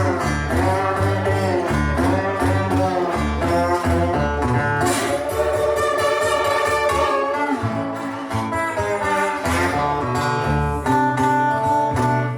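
A blues band playing an instrumental break, with lead guitar over bass and drums. The guitar plays bending notes, then holds a long high note near the end.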